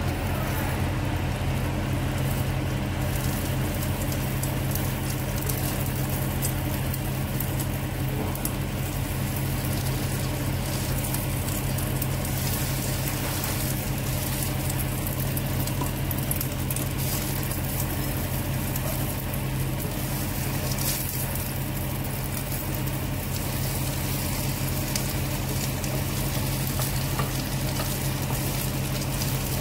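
Egg omelette with minced meat frying in hot oil in a non-stick pan, a steady sizzle with fine crackling, over a steady low hum.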